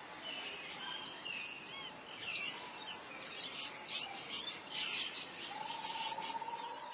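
Birds chirping and calling over a steady outdoor background hiss. A steady buzzy trill at one pitch comes in about five and a half seconds in.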